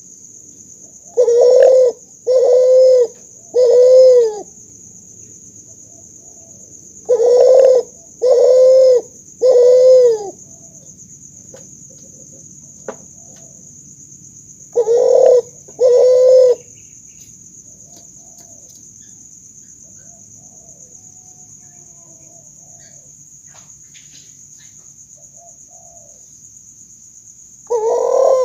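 Kuter, a spotted dove × barbary dove hybrid, cooing its song in loud, low coos: two groups of three, then a pair, and one more coo near the end.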